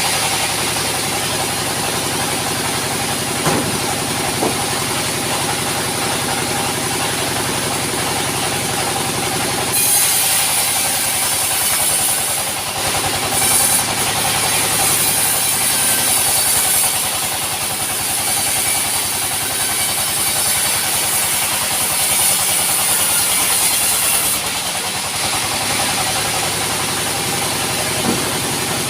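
Sawmill machinery running steadily with an engine note. A louder high hiss comes in about a third of the way through and drops away about two-thirds through, with a few short knocks.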